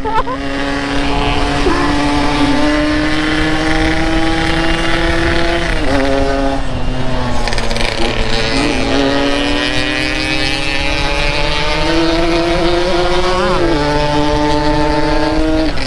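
Yamaha RX-King 135's two-stroke single-cylinder engine under way. Its pitch climbs steadily as it pulls, then drops sharply about six seconds in and again near the end as it is shifted up a gear.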